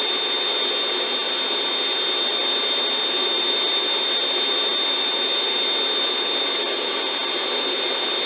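1500-watt snow machine running steadily with its speed dial turned all the way, its blower giving an even rushing noise with a constant high whine.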